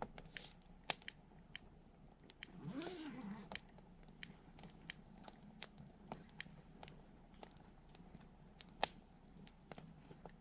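Wood campfire crackling, with irregular sharp pops and snaps, the loudest near the end. About three seconds in, a brief low tone rises and falls in pitch.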